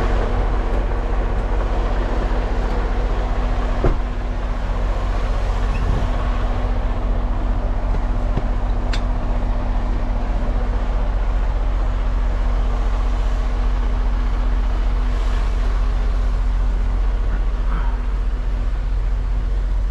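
Semi-truck's diesel engine running steadily with a constant low hum, and a single sharp knock about four seconds in.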